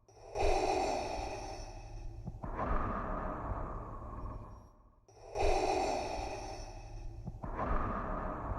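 Darth Vader's mechanical respirator breathing: slow, hissing breaths through the mask, in and out in an even rhythm of about two and a half seconds per stroke, close to two full cycles.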